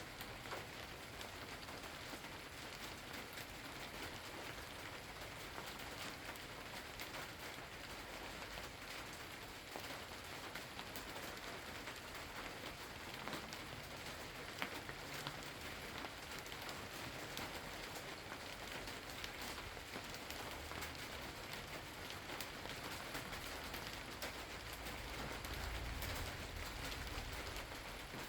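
Steady rain falling, with individual drops ticking on a surface. A low rumble swells in near the end.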